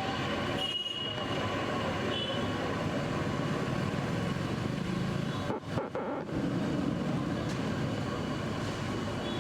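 Continuous noisy ambience at a roadside street-food stall, a dense steady din like traffic, with a couple of brief sharp dropouts about five and a half seconds in.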